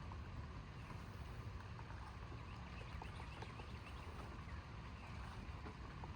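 Steady outdoor thunderstorm ambience: a low, even rumble with faint scattered ticks and short high chirps over it, and no distinct thunderclap.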